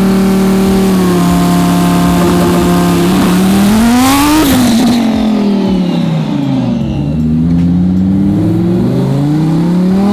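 Twin-turbo Audi R8 V10 launching: revs held steady for about three seconds, then the car pulls away and the pitch climbs to a shift about four and a half seconds in, with a burst of hiss there. It then accelerates on through further gears, the pitch dropping and climbing again at each change.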